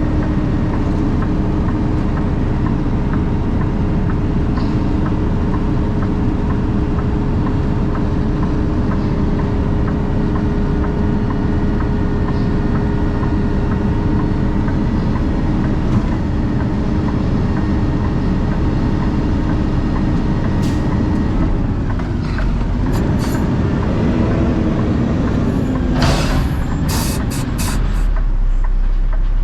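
A vehicle's engine and road noise as it drives, a steady drone with a steady hum in it. About three-quarters of the way through the pitch shifts and wavers, and a few sharp clicks or knocks follow near the end.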